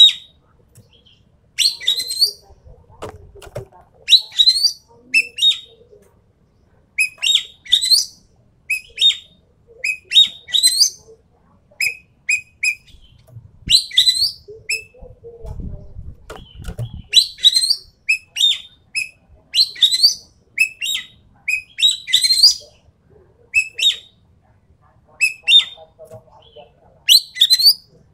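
Sumatran green magpie (ekek keling) calling: short, sharp, rising whistled phrases repeated every second or two, the kind of recording played as a masteran lure or training call.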